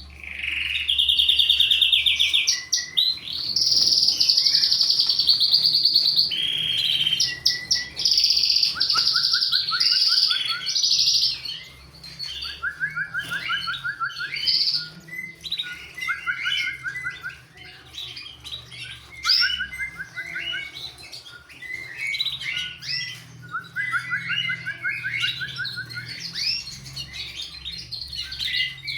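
Red mosaic canaries singing and chirping. Loud, fast rolling trills fill roughly the first eleven seconds, then softer repeated trills and short chirps follow.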